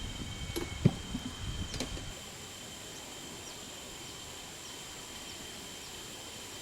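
Insects calling in a steady high drone, two unbroken pitches. For the first two seconds wind buffets the microphone, with one sharp thump about a second in, then the wind noise drops away suddenly.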